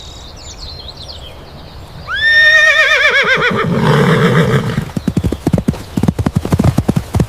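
A horse whinnies once, a long neigh that rises at the start, then quavers and falls in pitch. It is followed by the steady clip-clop of hooves.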